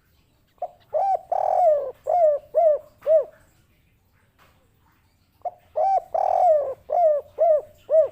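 Spotted dove (derkuku) cooing its 'kuk 3' song twice: each phrase opens with short coos and a longer drawn-out coo, then ends on three short 'kuk' coos. There is a pause of about two seconds between the phrases.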